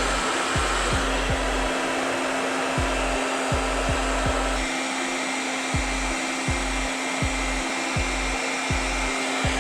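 Handheld blow dryer running steadily on its hot setting, a constant rush of air with a steady motor hum. It is heating an old frame sticker to soften its glue so it peels off.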